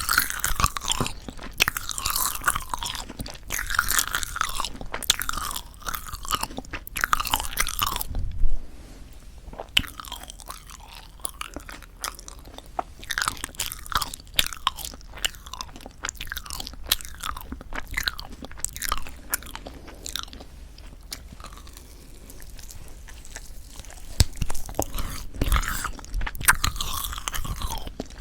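Close-miked chewing and biting of an owl-shaped marshmallow pop that has gone very tough and rubbery, which the eater puts down to poor storage: sticky, crunchy mouth sounds with many sharp clicks. The chewing is busiest at first, goes sparser and softer for a long stretch in the middle, and picks up again near the end.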